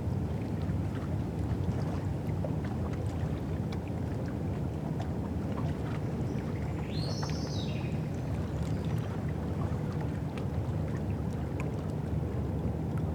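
River-shore ambience: a steady low rumble with faint scattered ticks, and a brief high chirping call about seven seconds in.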